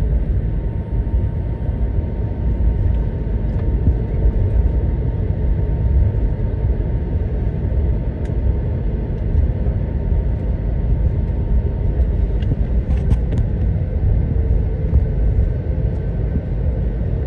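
Steady low rumble of an Airbus A321 airliner's jet engines and airflow as heard from inside the cabin, with a faint steady hum over it. A few faint clicks come about two-thirds of the way through.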